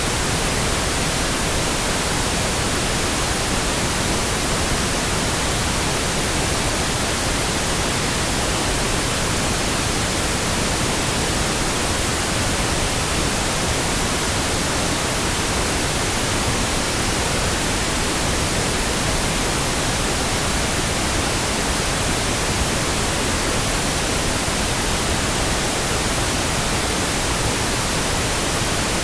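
Steady pink noise: an even, unchanging hiss with nothing else in it.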